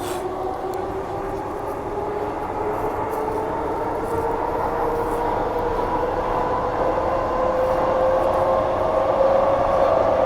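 Transperth A-series electric multiple unit running, its motor whine climbing steadily in pitch and getting louder as the train picks up speed, over the rumble of the wheels on the track.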